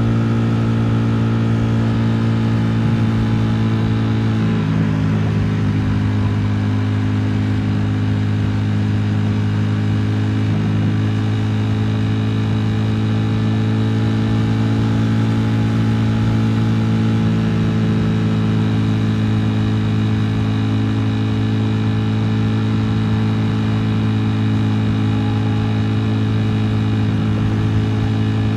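Ducati Streetfighter V4 S's 1103 cc V4 engine running at a steady, nearly unchanging speed, with only a slight shift in pitch about five seconds in.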